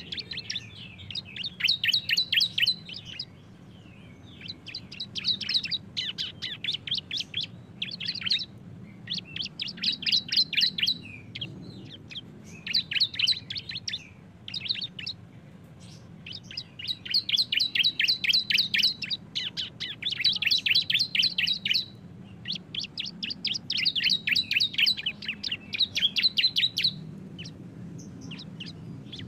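Two bar-winged prinias (ciblek) singing their fast, rattling 'bren' trill. The song comes in bouts of one to three seconds made of rapid sharp notes, separated by short pauses.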